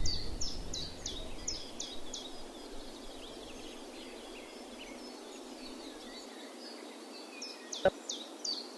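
A small songbird repeating quick, high, falling chirps, about three a second, which thin out after a couple of seconds and start again near the end, with fainter bird notes between. A low rumble fades away over the first few seconds, and there is one sharp click about eight seconds in.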